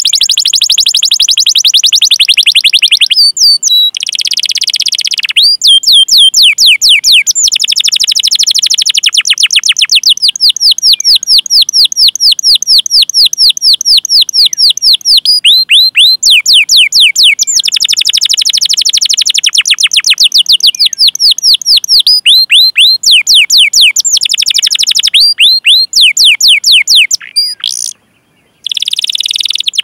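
Canary singing: long runs of rapid, evenly repeated 'cuit cuit' chirps, each a quick high downward sweep, alternating with fast rolling trills. The song breaks off briefly near the end.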